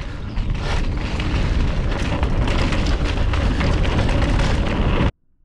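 Wind buffeting the mic and tyres rumbling over a rough dirt trail as a mountain bike descends fast, with many small rattles and ticks from the bike and gravel. The sound cuts off suddenly about five seconds in.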